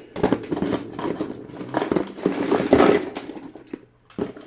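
Plastic fidget toys clattering as they are handled and sorted, a dense run of small clicks and knocks that dies down near the end.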